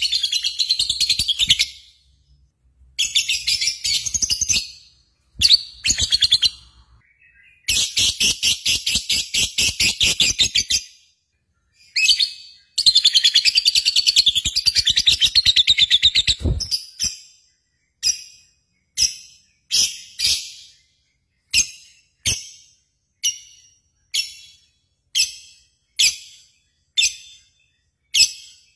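A bird's high-pitched chirping: several bouts of rapid trilled notes, then a run of single short chirps about one a second.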